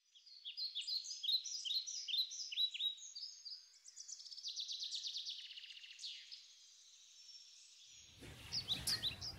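Songbird singing: repeated quick falling chirps, then a fast trill. Near the end the song grows fainter and a low room hum comes in.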